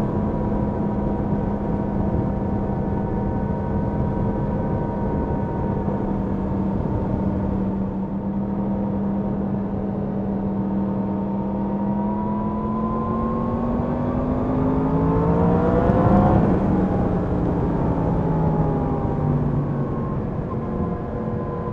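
Yamaha MT-10 SP's crossplane inline-four engine running under way over wind and road rush. It holds a steady note, then rises in pitch and gets louder for a few seconds before dropping back sharply about sixteen seconds in, then runs steady and lower.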